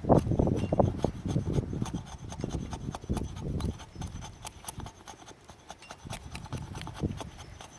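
Hatchet blade shaving curls down a wooden stick to make feather sticks: a run of repeated scraping strokes along the wood, heavier for the first few seconds, then lighter strokes and small clicks.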